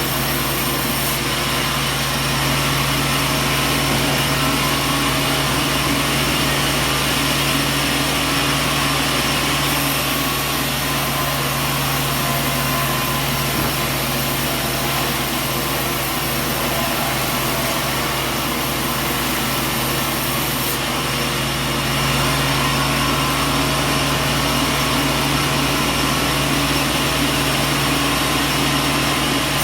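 Sawmill machinery running steadily: a constant low hum under an even mechanical noise, with no pauses or distinct strikes.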